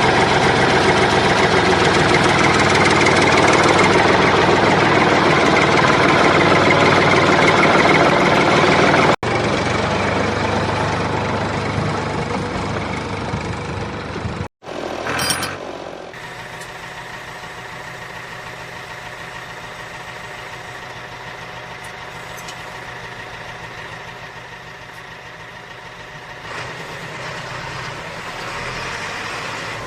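A motor-driven machine running, heard in several clips cut together. First comes a loud, dense rattling run. After the cuts it turns into a quieter, steady hum with a clear pitch, which shifts again near the end.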